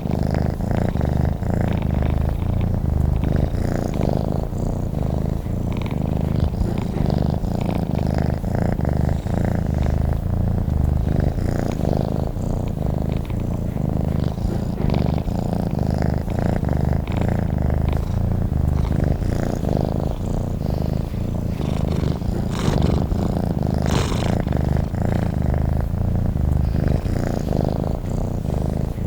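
Domestic cat purring steadily, a continuous low rumble with no breaks.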